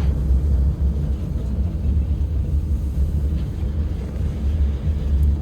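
Moscow Monorail train running along its beam, heard inside the passenger car: a steady low rumble.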